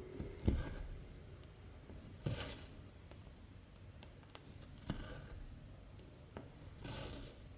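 Cotton embroidery thread pulled through 14-count cross-stitch fabric in short soft swishes, three times (about half a second in, about two seconds later, and near the end), with a few light ticks between.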